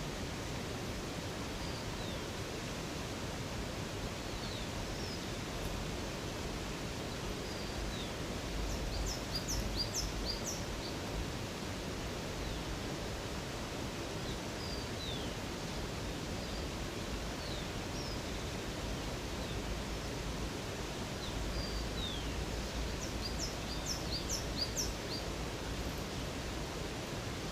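Steady rush of running water with birds calling over it: scattered short falling chirps, and a quick run of high notes about nine seconds in and again about twenty-three seconds in.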